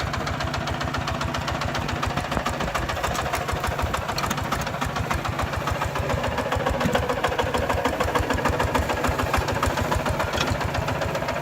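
Kubota RT140 single-cylinder diesel engine of a walking-type farm tractor running steadily with an even, rapid chugging beat.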